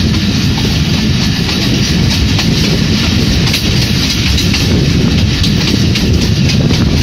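Pakistan Railways passenger train running at speed, heard from an open window of the coach: a steady rumble of wheels on the track, with irregular clicks and clatter from the wheels over the rail.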